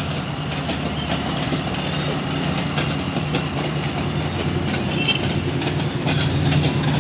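ZCU-20 (GE U20C) diesel-electric locomotive pulling a passenger train, its engine giving a steady low drone. The coaches roll past behind it with a clickety-clack of wheels over the rail joints.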